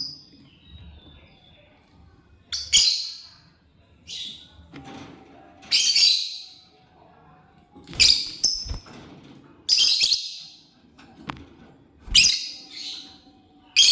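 Lovebird giving short, shrill, harsh chirps, about nine calls spaced a second or two apart.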